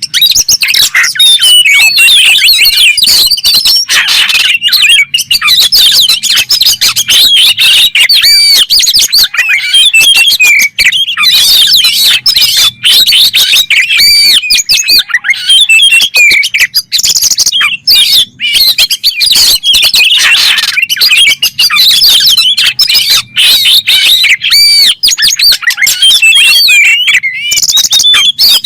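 Oriental magpie-robin (kacer) singing a loud, unbroken, varied song of rapid whistles, trills and sharp chattering notes, with the same run of phrases repeating about every eight seconds.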